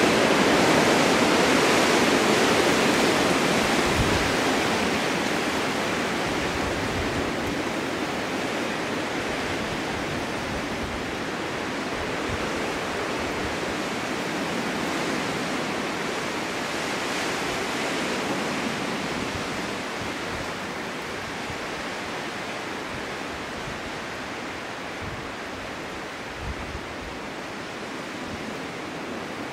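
Snowstorm wind blowing in gusts: a steady rushing, strongest near the start, swelling again about two-thirds of the way through and then easing off, with a few short low thumps.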